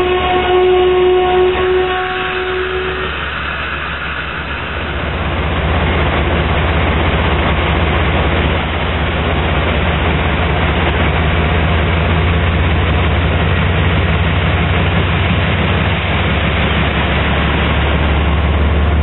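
Amtrak passenger train at a station platform. A drawn-out tone from the train fades out in the first couple of seconds. From about five seconds in comes a steady low rumble and hiss of the stopped train, with its diesel engine running.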